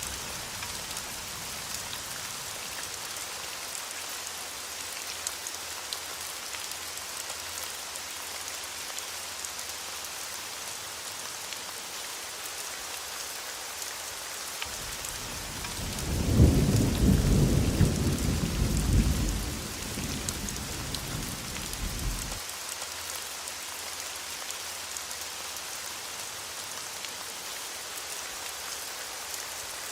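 Steady heavy rain falling, with a roll of thunder rumbling in about halfway through, loudest for a few seconds and then fading away under the rain.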